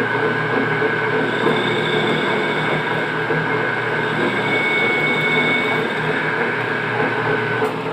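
A machine running steadily with a constant high whine, cutting off near the end.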